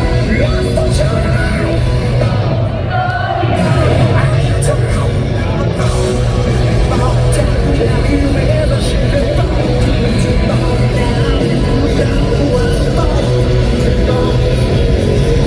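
Live rock band playing loudly in a large hall, with singing and the crowd yelling along.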